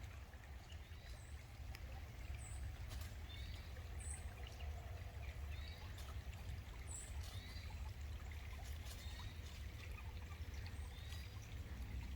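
A small bird chirping repeatedly, short and high-pitched, about once a second, over a faint steady rush of running water from a creek.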